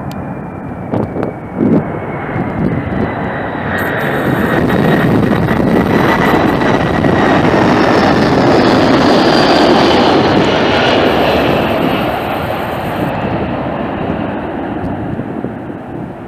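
Jet airliner passing overhead: its engine roar swells to a peak just past the middle and then fades, with a thin engine whine that slowly drops in pitch as it goes by. Wind buffets the microphone in the first couple of seconds.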